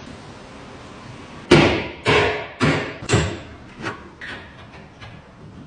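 Four hard hammer blows about half a second apart, each ringing briefly, followed by a few lighter taps.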